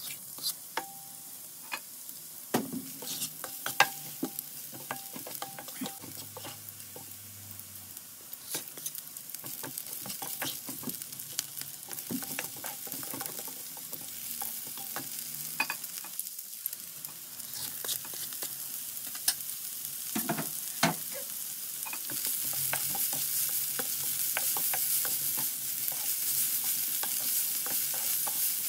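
Chopped garlic and peppers frying in a little oil in a nonstick pan, stirred with a wooden spoon that clicks and scrapes against the pan. The sizzling grows louder about three quarters of the way in.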